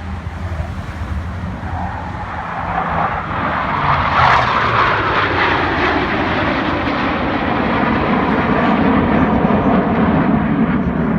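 An airplane flying past low. Its engine noise builds to its loudest about four seconds in, then carries on, dropping lower in pitch as it moves away.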